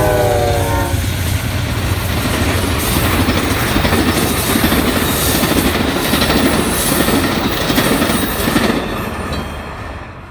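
Amtrak passenger train passing a grade crossing: the horn's last note slides down in pitch during the first second as the locomotive goes by. The bilevel Superliner cars then rumble and clatter over the rails, and the sound fades away near the end as the train recedes.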